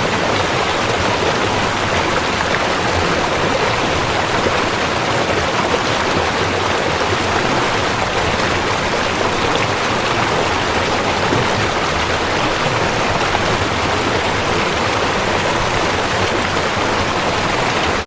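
Rushing river water, a steady full rush with no breaks.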